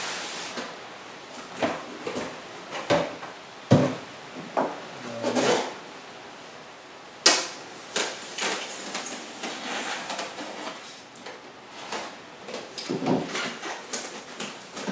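Cardboard box and styrofoam packing being handled and pulled apart: scattered knocks, scrapes and rustles, with one sharp click about seven seconds in.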